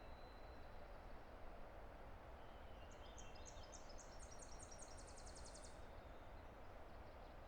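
Distant river rushing steadily. About three seconds in, a songbird sings a high trill of repeated notes that speed up, lasting about three seconds.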